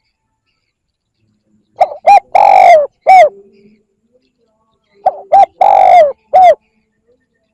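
Spotted dove cooing: two phrases about three seconds apart, each made of two short notes, one long drawn-out note that sinks slightly at its end, and a short closing note.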